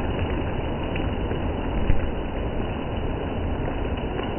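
Steady rain falling: an even hiss with a few sharper drop taps, the loudest a little under two seconds in.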